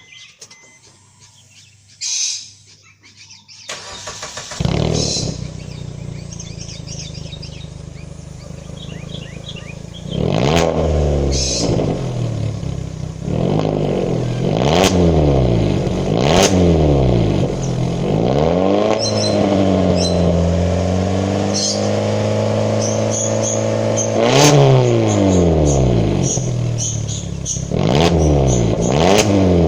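Suzuki Ertiga car engine breathing through a 2-inch straight-through stainless steel aftermarket exhaust with a packed perforated core, giving a deep bass note. The engine starts about four seconds in and idles, then from about ten seconds is revved again and again in short blips, with one longer held rev in the middle.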